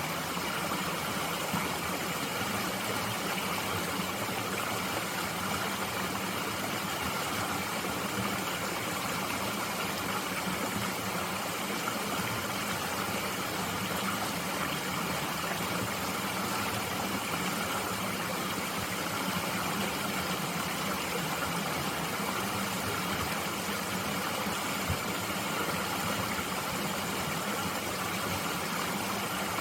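Mountain stream flowing, a steady, even rush of running water.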